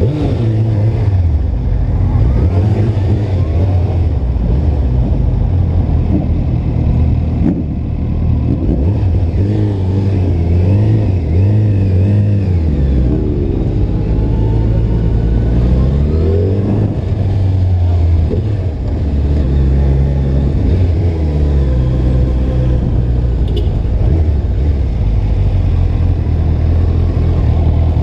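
Motorcycle engine running at low speed, its pitch rising and falling again and again as the throttle is opened and closed.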